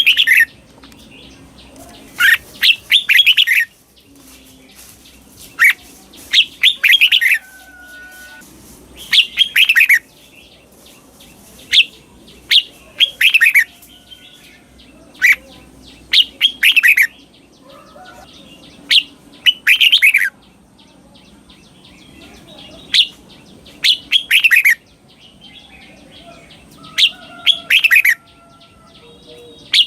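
Red-whiskered bulbul singing its doubled "เบิ้ล" song, slow and clear: short phrases of quick falling whistled notes, one about every three to four seconds.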